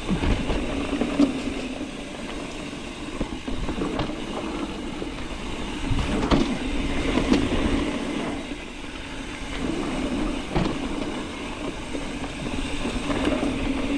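Mountain bike riding a rough dirt trail: tyres rolling over the ground, with scattered knocks and rattles as the bike goes over bumps.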